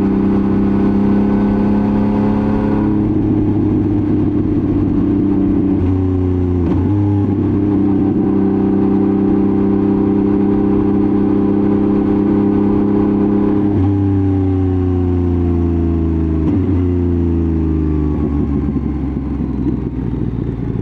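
Yamaha MT-09 CP3 three-cylinder engine through a titanium full exhaust, running steadily under load. Its pitch jumps briefly about six seconds in and again around fourteen and sixteen seconds, then falls gradually as the bike slows.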